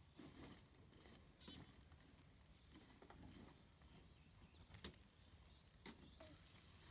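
Faint sizzling of sausages on a grill grate over charcoal, with a few soft clicks scattered through; the sizzle grows louder near the end.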